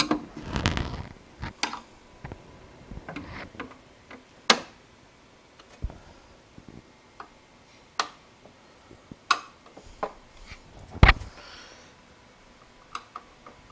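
Screws and a screwdriver clicking and tapping against the metal PC case as the motherboard is screwed down: a brief rustle at first, then single sharp clicks a second or more apart, the loudest near the end.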